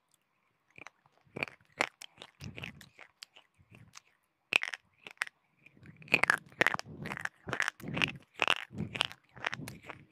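Close-miked crunching and chewing of hard, chalky mineral pieces (slate pencil, chalk or clay pot) between the teeth. Sharp, irregular cracks start about a second in and come thicker and louder from about six seconds.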